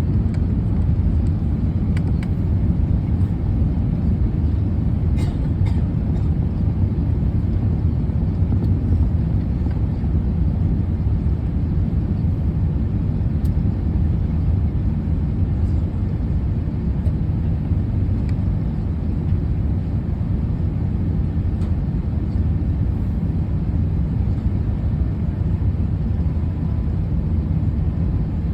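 Steady low rumble of a vehicle in motion, heard from inside, with no change in level throughout.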